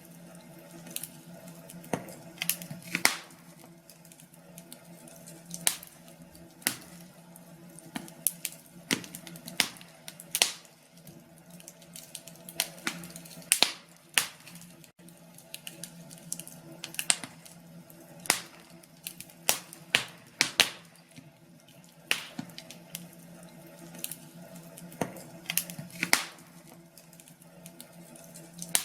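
Log fire crackling in a fireplace: irregular sharp pops and snaps, sometimes several close together, over a faint steady low hum.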